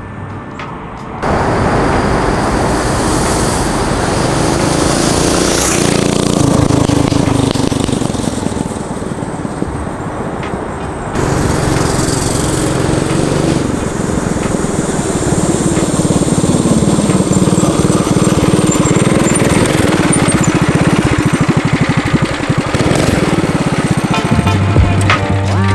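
Mini bike's small single-cylinder engine running through a newly added muffler on its former straight-pipe exhaust. It starts up about a second in and is revved up and down several times.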